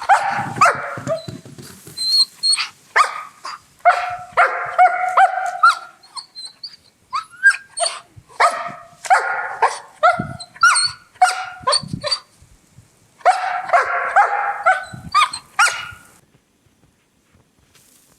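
A dog left tied to a tree, barking and whining in repeated bursts of high cries, then falling silent about two seconds before the end.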